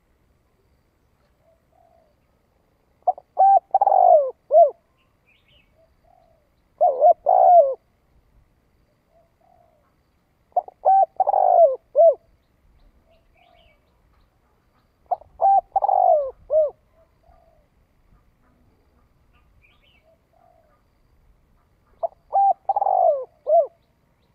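Spotted dove cooing its song: five loud multi-note coo phrases, each about a second and a half long. They come about every four seconds, with a longer pause before the last, and faint soft notes lie between them. This is the fast, urging call used as a lure to draw wild doves.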